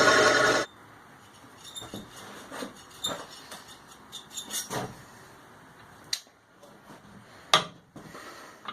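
A power tool running, cut off abruptly under a second in, followed by light metallic clicks and taps of parts being handled, with one sharp click near the end.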